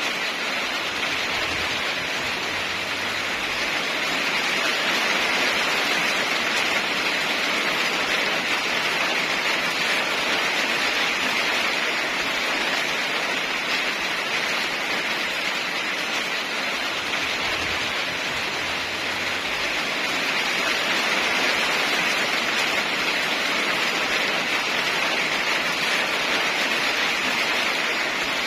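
Heavy rain falling in a steady, even hiss that swells and eases slightly every several seconds.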